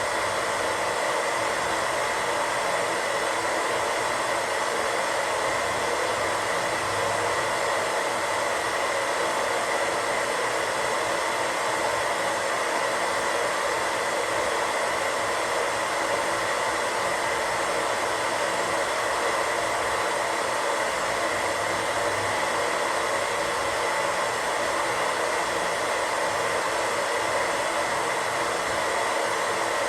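Steady static hiss from a radio tuned between stations, even and unchanging, strongest in the middle range, with a faint steady whistle near the top of that range.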